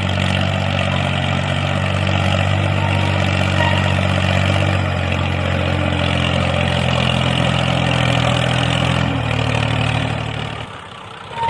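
The DIY miniature tractor's motor running steadily, its pitch shifting slightly partway through. It stops near the end.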